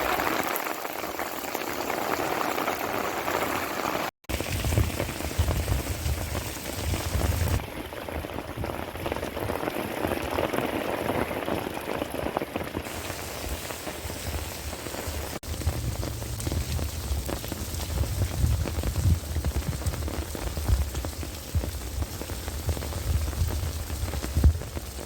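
Heavy rain falling steadily, with a short dropout about four seconds in and a low rumble underneath for most of the time after it.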